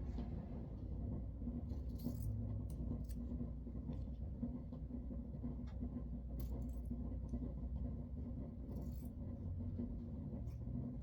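A steady low rumble with a faint hum, and a few light clinks scattered through it, about five in all.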